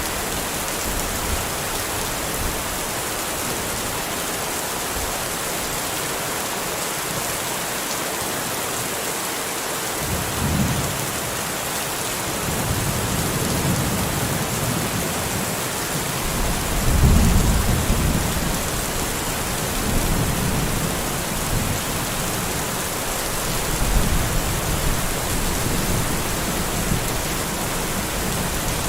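Steady rain hissing, with rolling thunder rumbling in from about ten seconds in, loudest a little past halfway and rumbling on in swells after that.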